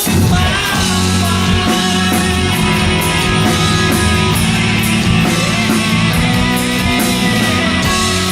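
Hard rock band playing live with electric guitar and drum kit, the full band coming in loud right at the start and carrying on at a steady beat.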